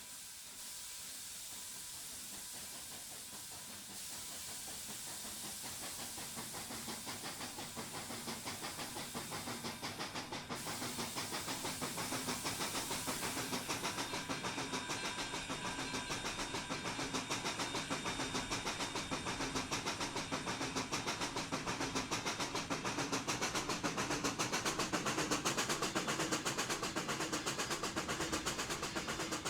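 Steam locomotives of a doubleheader, PRR 7002 (a 4-4-2 Atlantic) and PRR 1223 (a 4-4-0), hissing steam, then working closer with rapid, rhythmic exhaust beats that grow steadily louder.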